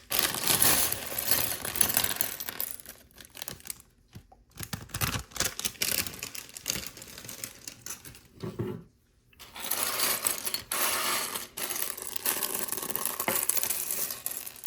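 Numbered plastic bag of Lego pieces being torn open and handled: crinkling plastic and small plastic bricks clattering and clicking together, with two short lulls.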